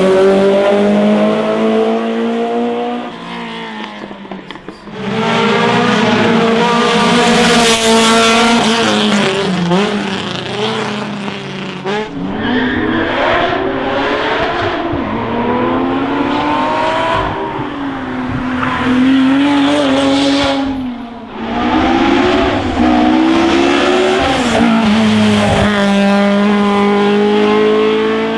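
Classic racing car engines at full throttle on a hillclimb, revving up through the gears, with the pitch climbing and then dropping back at each shift. The sound changes abruptly three times, as one car follows another.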